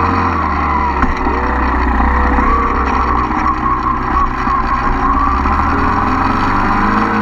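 Mini dirt bike engine running under way, its pitch climbing and then levelling off several times as it accelerates through the gears, with wind rumbling on the microphone.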